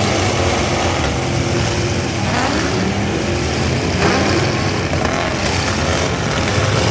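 Engines of several full-size pickup trucks running and revving in a demolition derby, their pitch climbing and falling a few times.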